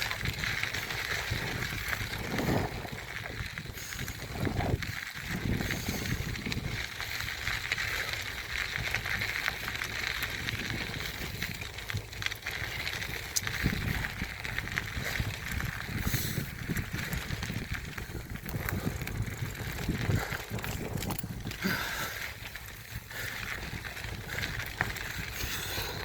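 Mountain bike riding over a dirt trail: tyre noise and rattling of the bike, heard through a phone held in a handlebar mount, with an irregular low rumble throughout.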